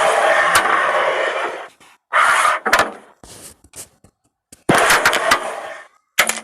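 Carrom shots: pieces slide across the board with a rasping noise and click against one another and the frame, then new flicks of the striker set off fresh slides, one about two seconds in and a harder one with a sharp crack near five seconds.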